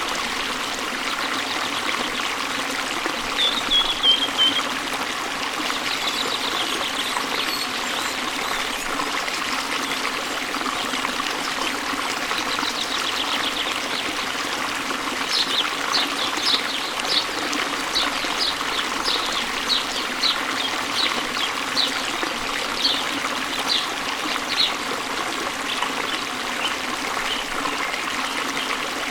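Waterfall and stream water flowing steadily, with birds chirping over it: a short falling call a few seconds in, then a run of quick repeated chirps, about two a second, from about halfway until near the end.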